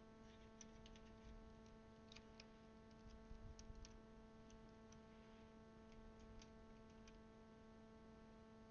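Faint, irregular small plastic clicks of keyboard keycaps being handled and pushed onto the switches of a DasKeyboard mechanical keyboard, over a steady low electrical hum.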